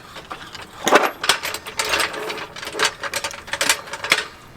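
Metal hand tools clinking and clicking: a socket wrench and sockets being handled, with a series of irregular sharp clinks.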